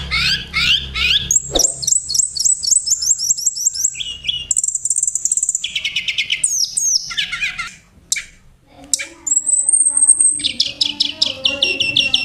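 Songbirds singing, one song type after another: fast runs of repeated high chirps and trills, a short lull about eight seconds in, then one held high whistle followed by more rapid chirping.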